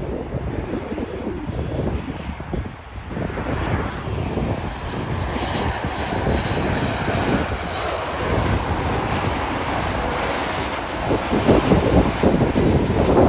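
Airliner engines running as an aircraft passes, the roar building from about three seconds in and growing louder near the end, with wind buffeting the microphone.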